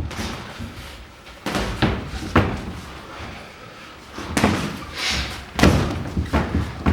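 Boxing gloves landing punches during a sparring exchange: a scatter of sharp smacks and thuds, several coming in quick succession in the second half.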